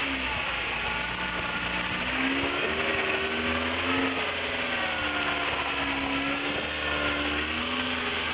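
A motor running steadily, its pitch wavering slowly up and down, over the steady rush of a waterfall.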